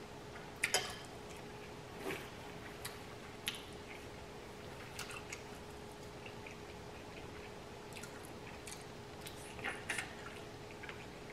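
Close-up eating sounds: soft wet chewing with scattered smacking clicks of the mouth at irregular moments, over a faint steady hum.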